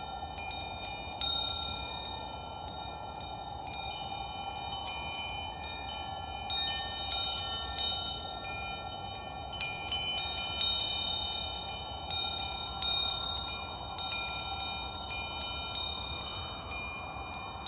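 Metal wind chimes ringing, struck at irregular moments, with clear high tones that overlap and die away slowly and one louder strike about ten seconds in. Beneath them runs a steady soft rushing noise.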